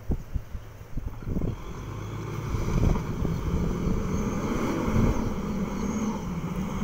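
Mitsubishi Pajero Sport's engine revving under load as the SUV pulls out of a muddy rut where its wheels had been slipping, getting louder about two seconds in and staying up. A few low thumps come before it.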